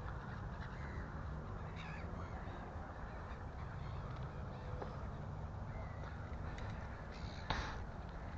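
A crow cawing, a short harsh call about two seconds in and a louder one near the end, over a steady low rumble of wind and riding noise.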